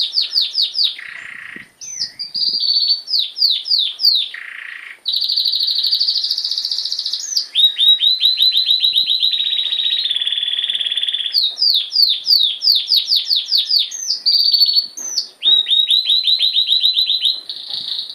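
Domestic canary singing: a long, loud song of fast repeated down-sweeping notes and rapid rolling trills, one phrase running straight into the next.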